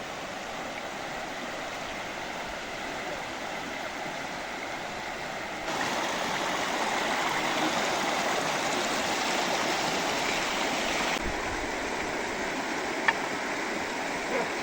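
Rushing water of a mountain stream, a steady, even rush. It turns abruptly louder about six seconds in and softer again about eleven seconds in. A single sharp click sounds near the end.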